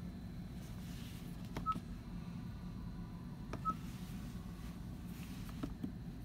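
Two short electronic beeps about two seconds apart, each just after a click, over a steady low hum, with a few more clicks near the end.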